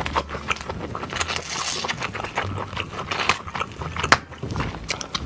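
Close-miked cracking and crunching of a king crab's shell, a run of sharp snaps and crackles with one louder crack about four seconds in.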